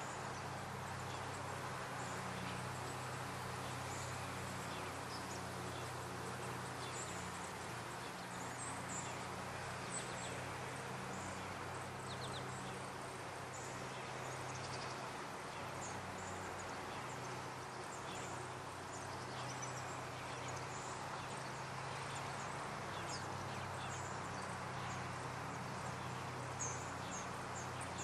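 Outdoor ambience of faint, short, high bird chirps scattered through, more frequent near the end, over a steady low hum.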